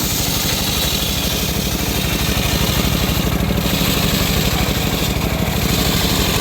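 Homemade circular sawmill running steadily, its engine pulsing low under a continuous high hiss as the blade rips through an old teak log.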